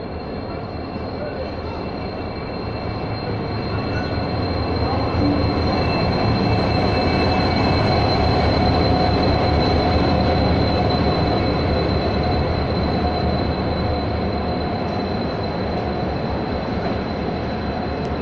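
Passenger train hauled by a WDP4D diesel locomotive running past along the platform. Its wheels rumble under a steady high-pitched squeal. The sound builds to its loudest about eight to ten seconds in as the locomotive goes by, then eases slightly as the coaches follow.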